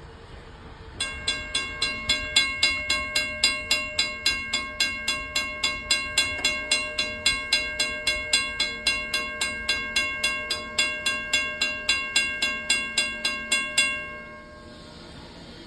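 A railroad bell ringing at a steady, fast clang of about three strikes a second. It starts about a second in and stops short about a second before the end.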